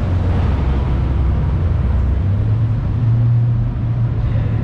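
A car engine running nearby with a steady low hum, its pitch stepping up slightly about two seconds in.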